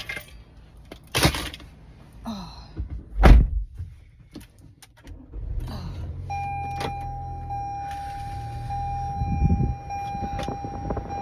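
Clicks and a heavy car-door thunk about three seconds in, then a car engine starts and idles steadily. A steady high tone sounds over the idle from about six seconds in.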